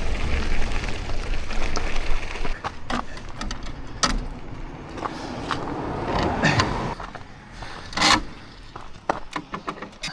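Mountain bike rolling with steady tyre and wind noise for the first couple of seconds, then a run of scattered clicks and knocks as it slows and is handled.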